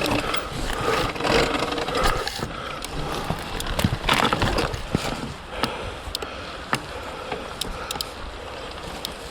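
Surron Ultra Bee electric dirt bike, fitted with a TORP TM50 Pro motor, riding over rough ground: motor whine and drivetrain noise that ease off after the first couple of seconds, with scattered sharp knocks and clicks from the bike working over roots.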